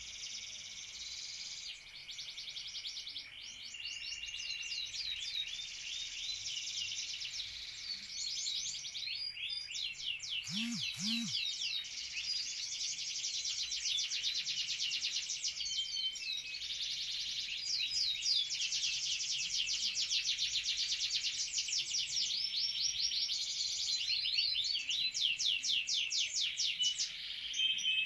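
Domestic canary singing continuously: long runs of fast, rapidly repeated trilled notes in varied rolling phrases, growing louder as the song goes on.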